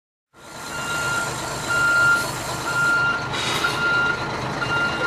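A truck reversing: its back-up alarm beeps about once a second over the low running of the engine, with a couple of short hisses.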